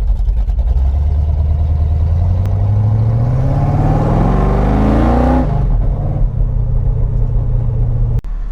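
1956 Chevy Bel Air's 572-cubic-inch big-block V8 on open headers, idling, then revved in one long steady climb of about four seconds before the revs drop suddenly back to idle.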